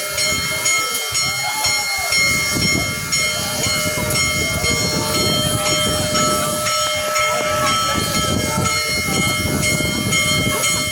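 Union Pacific Big Boy 4014's steam train running past with a dense rumble, with steady high-pitched ringing tones held throughout.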